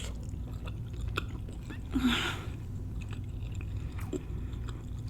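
A person chewing a bite of cornmeal-crusted fried catfish close to the microphone, with small scattered mouth clicks. There is one louder, noisier moment about two seconds in.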